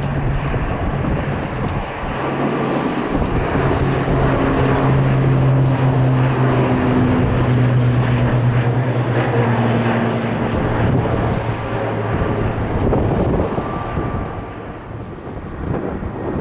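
ATR 72 twin turboprop taking off, its propellers giving a loud low steady drone. The drone swells in the first few seconds, drops in pitch from about halfway as the aircraft passes, and fades near the end. Wind buffets the microphone throughout.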